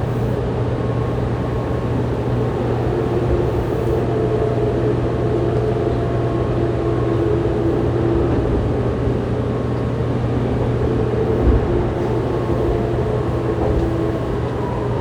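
Fukuoka City Subway 2000-series train, whose set has a Hitachi GTO-VVVF inverter, running through the tunnel: a steady rumble of wheels and running gear under a constant low motor hum with a few held tones above it. A single short knock comes about eleven and a half seconds in.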